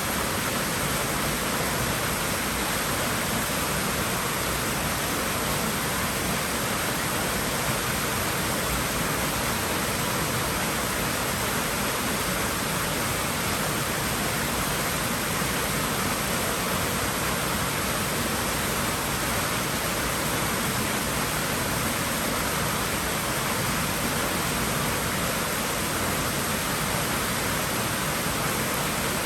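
Steady, unbroken rushing of water in a swimming pool, an even hiss with no separate splashes.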